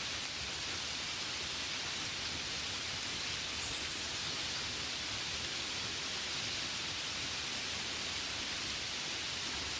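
Gentle rain falling steadily on a window, an even hiss with no single drops standing out.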